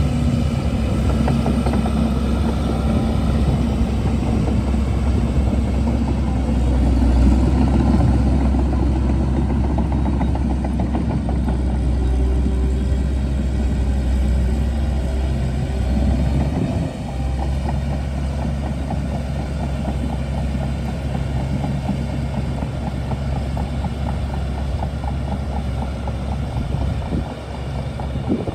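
Shantui DH17C2 bulldozer's diesel engine running steadily, with a brief drop in level about seventeen seconds in.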